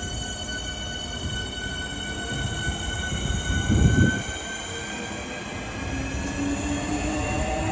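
Electric train running at the station, with several high whining tones that slowly fall in pitch over a low rumble, and a heavy low thud about four seconds in.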